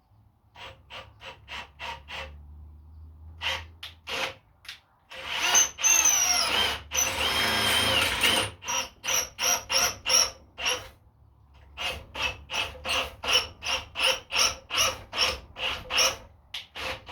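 Thread tap cutting into the steel end of a Honda GX270 crankshaft: metal squealing in short strokes, about two a second, with a continuous grinding screech lasting about three and a half seconds from around five seconds in. The mechanic suspects the tap is being destroyed rather than cutting thread.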